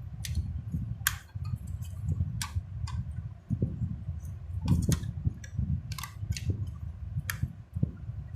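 Light, irregular clicks and taps as a 1:24 diecast model car is handled, over a low handling rumble.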